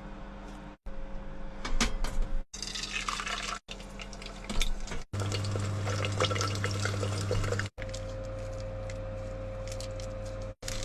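Cooking sounds in a series of short cut clips: liquid bubbling and sizzling with some crackle, over the steady hum of a small homemade range-hood fan.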